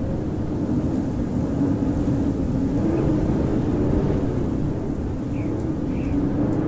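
Howling winter wind: a steady rumbling rush with a low howl that slowly rises and falls in pitch. Two faint short high chirps come near the end.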